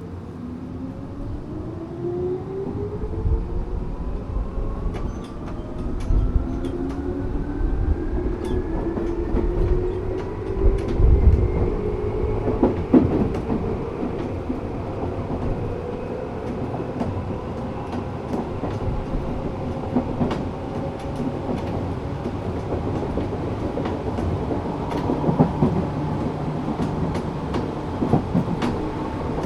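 Tokyu 8500 series electric train with Toyo-made traction motors running and gathering speed. The motor and gear whine rises in pitch over about the first fifteen seconds, then holds steady, with rail-joint clicks and wheel noise under it.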